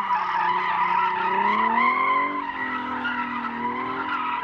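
A car drifting: the tires squeal in a steady high screech while the engine revs rise and fall under throttle.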